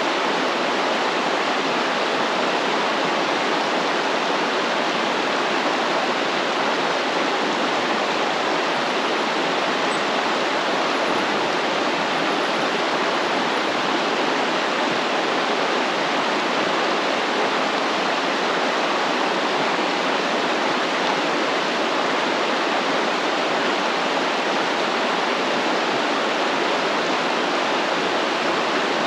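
Stream water flowing, a steady, even rush of running water with no change in level.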